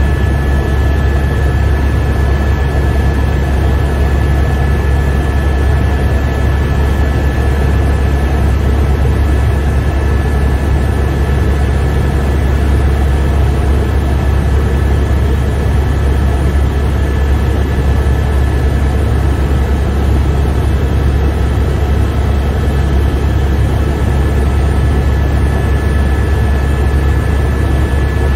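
Helicopter in steady cruise heard from inside the cabin: a loud, unchanging deep drone from the rotor and turbine engine, with a thin steady high whine over it.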